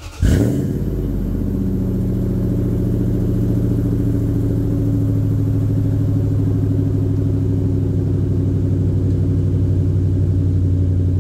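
2006 Toyota Sequoia's 4.7-litre V8, fitted with a new custom exhaust (short-tube headers, aftermarket muffler, stainless 2.5-inch pipe), cold-starting. It cranks briefly, catches with a flare about a quarter second in, then settles into a steady idle.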